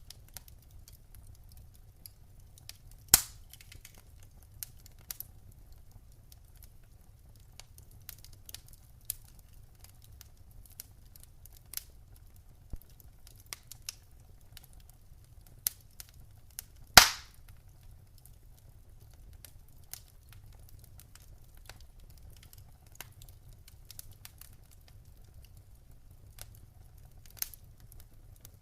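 Wood fire burning in a fireplace, crackling with scattered small snaps over a low rumble, and two much louder pops, a few seconds in and again just past the middle.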